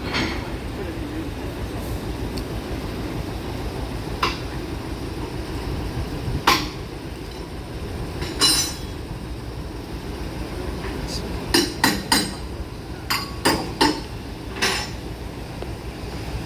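Sharp metallic clanks and knocks, single ones at first and then several in quick succession, over a steady low rumble.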